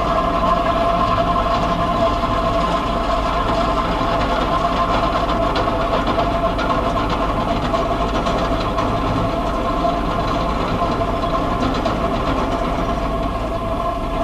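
Unidentified steady outdoor drone: several held, unwavering tones over a low rumble and hiss, recorded on a mobile phone. This is one of the "strange sounds" reported around the world in 2012.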